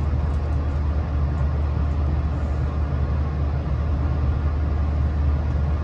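Steady low hum and rumble inside a passenger train car that is standing still with its equipment running, heard through the car.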